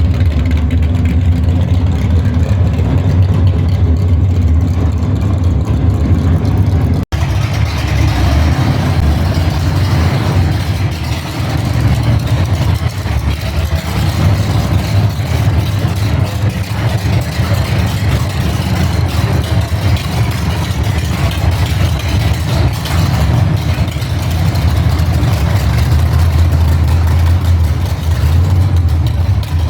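A car engine running with a deep, steady rumble. The sound breaks off sharply for an instant about seven seconds in, then carries on with more noise mixed in.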